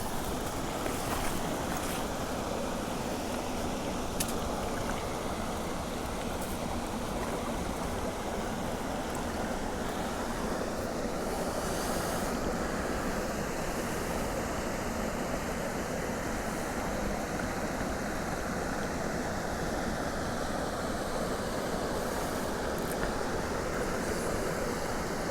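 Mountain creek water running, a steady, even wash with no change throughout. A few faint clicks in the first few seconds.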